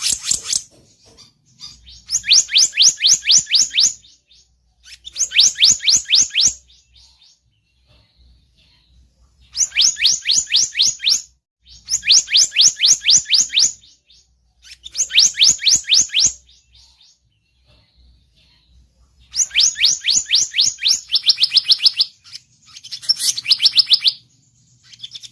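Selendang biru bird song played as a lure call: repeated high trilled phrases, each about two seconds of rapid sweeping whistled notes, with short pauses between them. One phrase about three-quarters of the way through runs lower in pitch.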